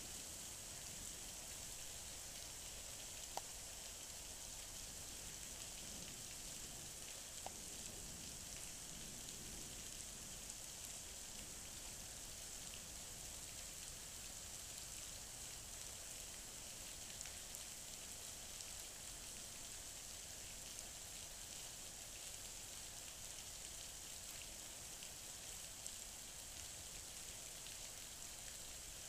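Heavy rain pouring onto pavement and trees in a steady hiss, with a few sharp ticks of single drops, the loudest about three seconds in and another about seven seconds in.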